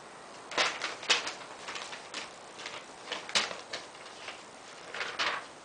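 Metal hardware and frame parts being handled during hand assembly: an irregular series of sharp clicks and clinks, the loudest about half a second, one second, three and a half seconds and five seconds in.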